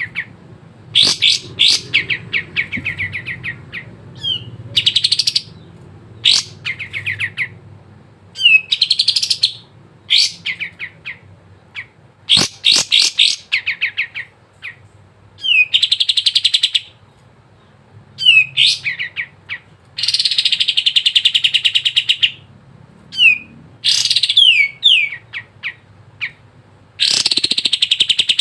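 Olive-winged bulbul (kapas tembak) singing loudly in rapid, high chattering phrases, each a second or two long with short pauses between. Some quick downward-sliding notes are mixed in.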